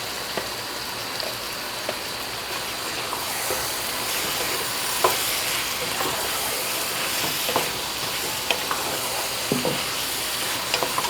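Yogurt-marinated chicken sizzling in hot oil with an onion and tomato base in a pan, with scattered clicks and knocks of a utensil stirring against the pan. The sizzle grows a little louder about three seconds in.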